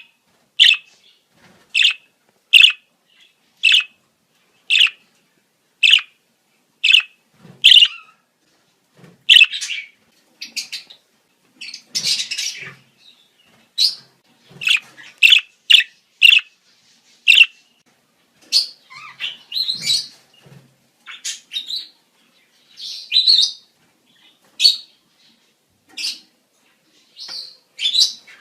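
Budgerigars calling in breeding season. A regular series of short, sharp chirps, about one a second, gives way about nine seconds in to quicker, more varied chirping and chatter.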